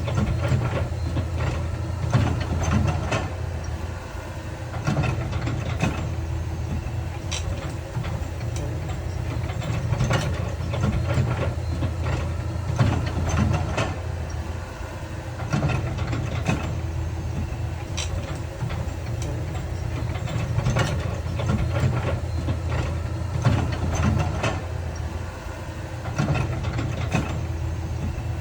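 Heavy diesel construction machinery running with a steady low engine drone, with frequent short clanks and knocks throughout.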